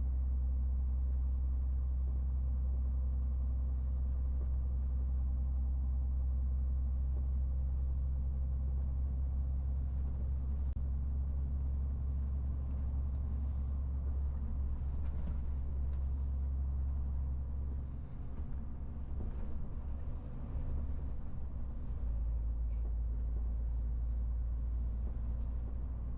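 MAN TGX 18.470 truck's 12.4-litre inline-six diesel running under way with a steady low drone. The drone wavers and drops a little about eighteen seconds in, then settles again about four seconds later.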